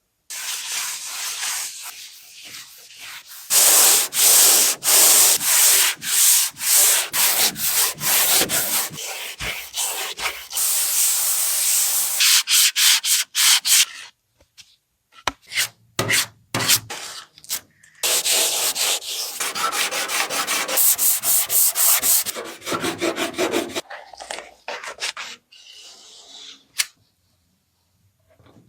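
Sanding by hand, the abrasive rubbed back and forth in even strokes, about two a second. It breaks off for a few seconds midway, with only a few taps, then resumes.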